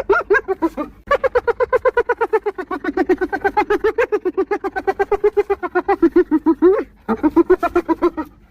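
Spotted hyena giggling: quick runs of short pitched notes, about eight a second, broken by brief pauses about a second in and again near the end.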